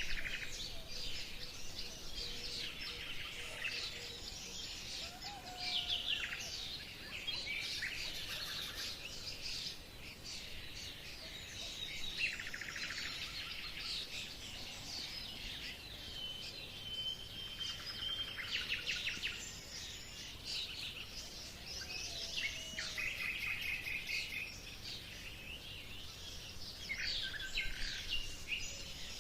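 Many small birds chirping and singing at once, a dense birdsong chorus with overlapping short chirps and rapid trills, over a faint steady background hiss.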